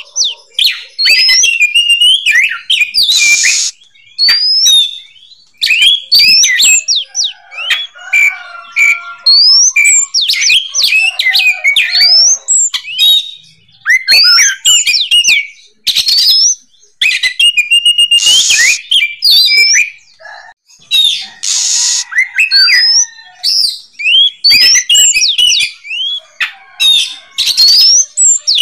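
Oriental magpie-robin (kacer) singing in full song: long runs of loud, fast whistled notes that sweep up and down, broken every few seconds by short harsh, hissing notes.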